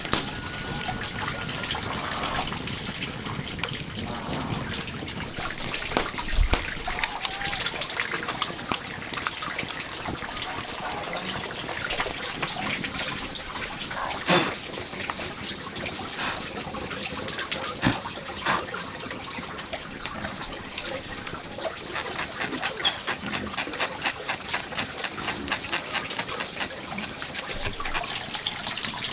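Water trickling and splashing, with many small clicks that grow denser and more regular toward the end.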